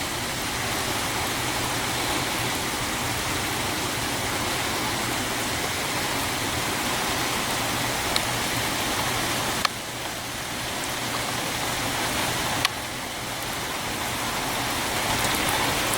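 Hard rain falling steadily, with a few single sharp ticks over it.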